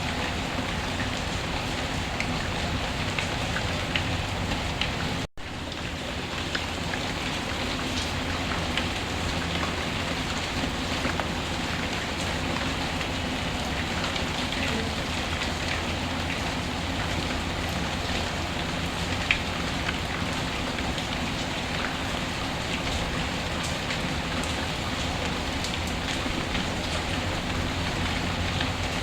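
Steady rain falling on a surface, a dense even hiss with scattered sharp ticks. About five seconds in, the sound cuts out for a split second and comes back.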